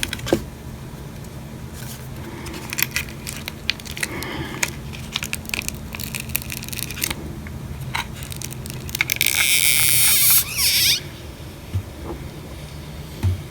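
The glued-in battery of an iPhone SE being pried out with a tool: scattered small clicks, creaks and scraping, then a louder crackling tear lasting about two seconds near three-quarters of the way through, as the stuck battery is worked loose.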